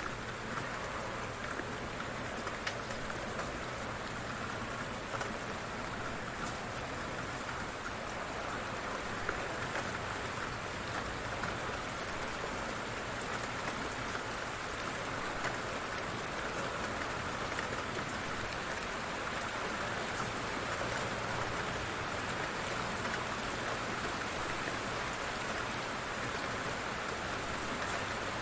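Light rain falling steadily, with a patter of individual drops striking a surface.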